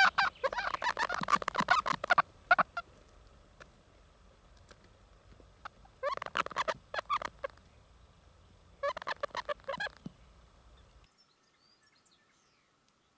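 A forest bird calling in three bouts of rapidly repeated notes: at the start, around six seconds in, and around nine seconds in.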